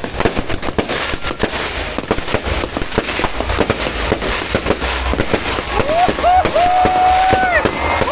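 New Year's fireworks and firecrackers going off in a rapid, continuous string of bangs and crackles. From about six seconds in, a horn-like tone sounds over them in a few held notes that slide up at the start and down at the end.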